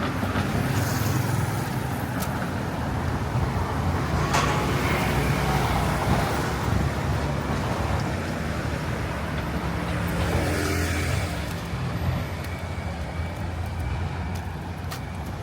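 Street traffic: a steady hum of motor vehicle engines, with several vehicles passing close by, about a second in, around four to five seconds, and again near ten seconds.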